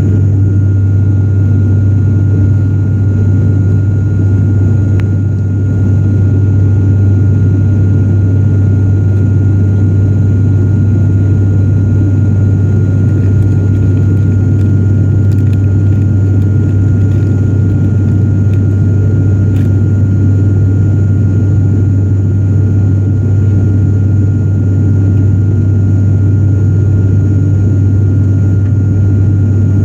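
Turboprop airliner's propellers and engines droning steadily in the passenger cabin during the climb out, a deep hum with a faint steady whine above it.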